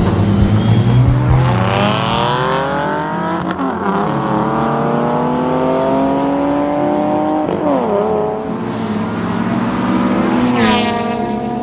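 Car engine accelerating hard, its pitch climbing steadily and dropping at two upshifts about four seconds apart. Near the end a second, higher-pitched engine note surges in.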